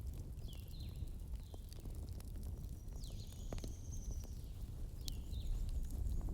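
Wood fire burning with a low steady rumble and scattered sharp crackles and pops of the logs. Birds chirp over it: short chirps near the start and near the end, and one longer high note around the middle.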